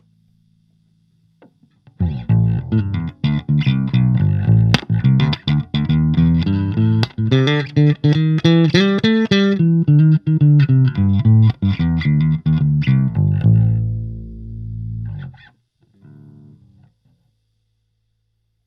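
Electric bass played through a compact Fender Rumble 25 bass amp. A quick run of plucked notes starts about two seconds in and ends on a held low note that dies away. One short note follows near the end.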